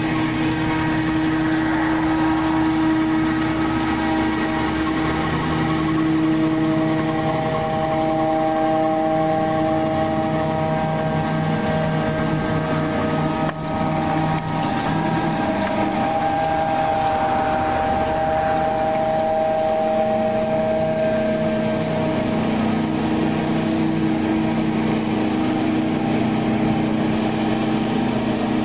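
Tracked dumper's engine running steadily, its note shifting a few times as the revs change, with a brief dip about halfway through.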